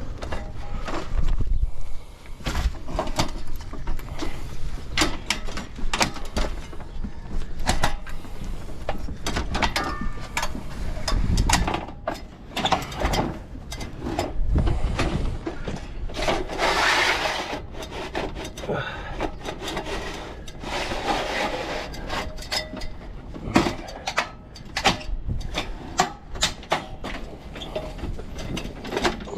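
Irregular knocks, taps and scuffs of a roofer climbing up and moving about on a roof with a loaded tool belt, with a longer stretch of scraping and rubbing about halfway through.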